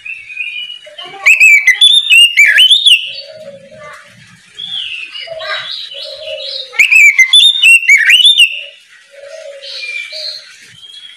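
Oriental magpie-robin (kacer) singing in two loud bursts of quick, sliding whistled phrases, the first about a second in and the second past the middle, with quieter notes between them.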